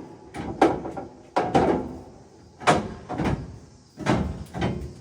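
Metal clanking and knocking as combine concaves are handled and fitted: about eight sharp knocks, mostly in pairs, each with a short metallic rattle.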